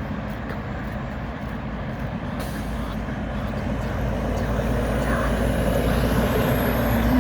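Diesel engine of a cabover semi truck running and growing steadily louder as it approaches, with a faint high whine rising over the last few seconds.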